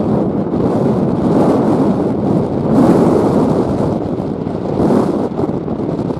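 Strong wind buffeting the microphone: a loud, gusting rumble that swells about three seconds in and again near five seconds.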